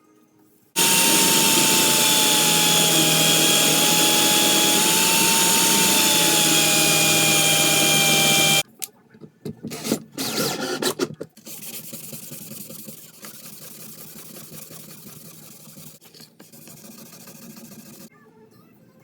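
An electric power tool runs loud and steady for about eight seconds, its pitch sagging slightly as it works, then cuts off suddenly. A few short bursts follow, then a quieter steady run.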